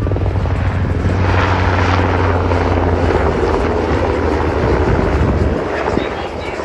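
Boeing P-8A Poseidon's twin turbofan engines rumbling loudly as the jet makes a low pass, easing off about six seconds in.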